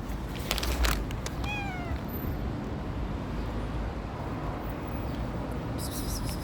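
Street cat meowing once, a short call that falls slightly in pitch about a second and a half in. A few sharp clicks come just before it, over a steady low rumble.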